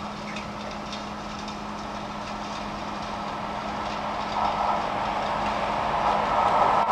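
Freight train headed by two ASEA electric locomotives, an Rc4 and an Rm, approaching. Its running noise grows steadily louder over a steady low hum.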